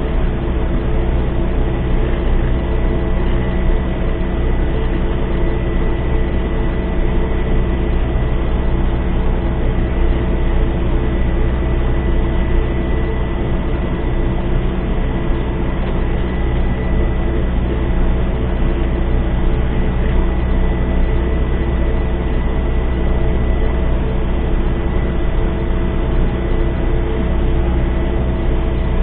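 MTZ-892 tractor's diesel engine running steadily at constant speed: a loud, even drone with a thin steady whine above it.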